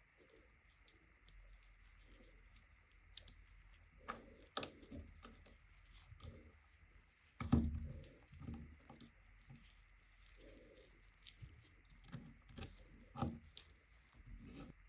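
Small handling noises: scattered clicks, rustles and light knocks, with a sharper knock about seven and a half seconds in and another near the end.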